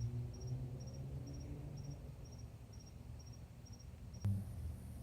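Mercedes-Benz C32 AMG's supercharged 3.2-litre V6 idling with a low, steady exhaust hum, while a cricket chirps about twice a second. A sharp click comes about four seconds in, with a brief swell in the low hum.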